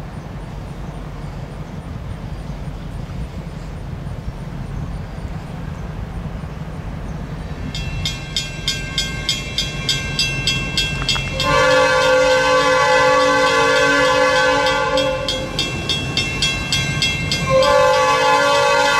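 A low, steady diesel rumble, then a bell starts ringing about twice a second. A few seconds later an EMD GP-series diesel locomotive's air horn sounds one long chord blast, falls silent briefly, then blasts again near the end while the bell keeps ringing.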